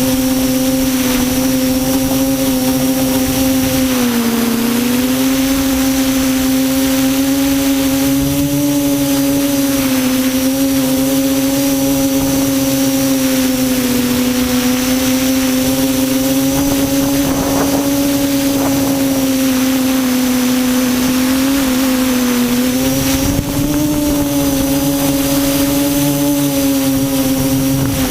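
QAV400 quadcopter's electric motors and propellers buzzing steadily in flight. The pitch dips briefly twice, about four seconds in and again near 22 seconds, as the throttle eases off and comes back.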